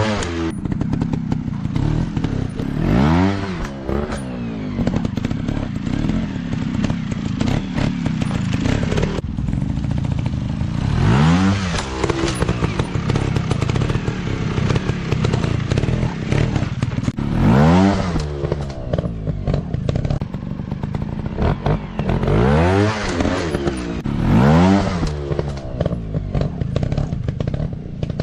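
Dirt bike engines running, with repeated throttle blips that make the pitch rise and fall sharply about six times over a steady lower drone.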